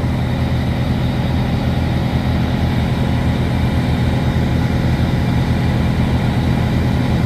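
Freightliner Cascadia semi-truck's diesel engine idling with a steady low hum.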